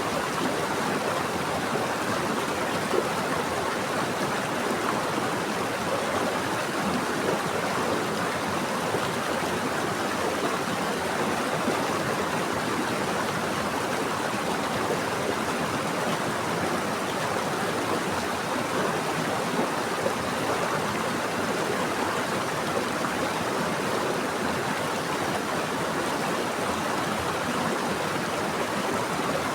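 Running water of a stream or small waterfall, a dense and steady rushing with fine splashing and no pauses.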